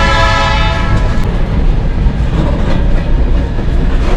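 Train horn sounding a chord that cuts off about a second in, over the loud, steady low rumble of the moving train.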